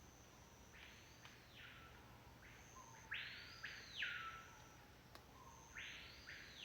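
Capuchinbird calling: three harsh, rasping calls of about a second each, a couple of seconds apart, each starting with a short low note.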